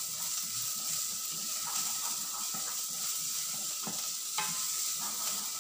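Chopped garlic and onion sizzling in hot oil in a small stainless steel pot while a spoon stirs them, with a couple of light clicks of the spoon against the pot about four seconds in.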